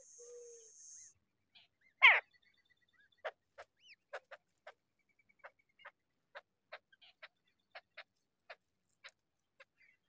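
Bird sounds: a high hiss in the first second, then one loud call sweeping down in pitch about two seconds in, followed by a run of short, sharp notes coming two or three a second.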